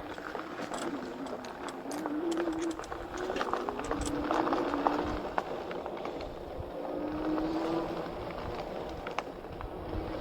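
E-bike electric motor whining, its pitch rising and falling with speed, over a steady run of clicks and rattles from the bike on rough ground.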